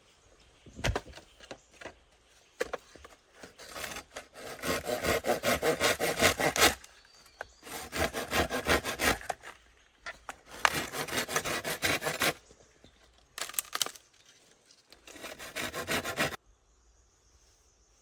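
Wood being sawn in fast back-and-forth strokes, about five a second, in several bouts with short pauses between them, after a few scattered knocks at the start.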